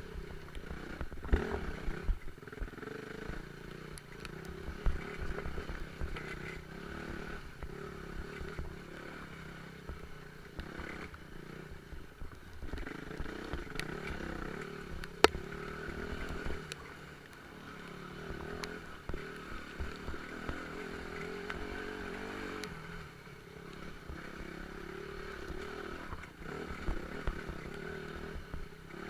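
Off-road motorcycle engine running with the revs rising and falling, over scattered sharp knocks and clatter, the loudest knock about halfway through.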